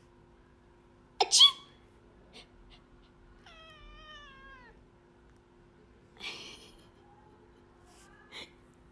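A cat meowing: a loud, sharp cry about a second in, then a drawn-out meow that falls in pitch in the middle, followed later by a short noisy burst and a brief sound near the end.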